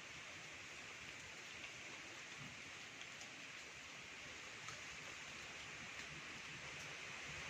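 Wind blowing, a faint steady rushing hiss with a few small ticks scattered through it.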